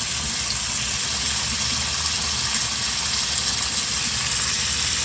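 Water running steadily from a Moen faucet into the sink, an even rushing hiss.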